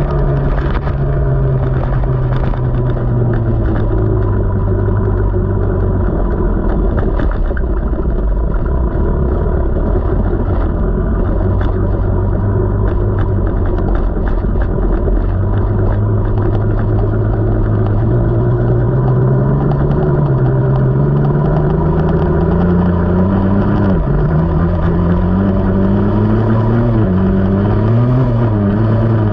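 KTM 300 two-stroke dirt bike engine running while being ridden, its pitch rising and falling with the throttle: it climbs gradually in the second half, drops sharply and picks up again, then revs up and down near the end. Scattered knocks and rattles come through in the first third.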